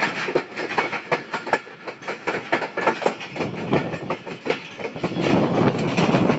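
Train wheels clattering over rail joints in a rapid, irregular run of clacks, with a heavier rumble building about five seconds in.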